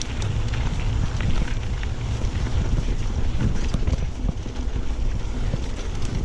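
Wind buffeting an action camera's microphone during a mountain-bike ride, a steady low rumble with many small clicks and knocks from the bike rattling over rough trail.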